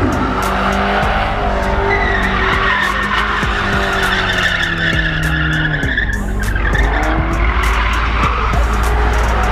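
Car doing a burnout or donuts: high-revving engine over continuous tire squeal, the pitch sliding up and down as the wheels spin.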